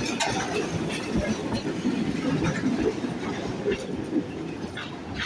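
Tram running on street rails: a steady low rumble with a few sharp clacks from the wheels now and then.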